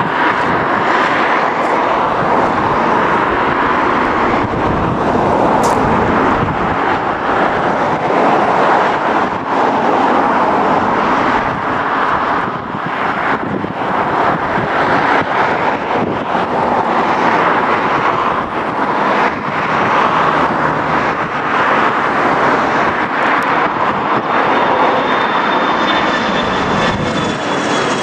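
Embraer E145 regional jet's twin Rolls-Royce AE 3007 turbofan engines running loud and steady, with a constant whine; a higher whine joins near the end.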